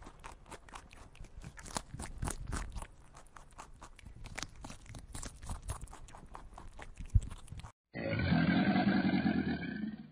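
Faint scattered clicks and crackles, then, after a brief dropout about eight seconds in, a loud, deep, growling animal roar that stops just before the end.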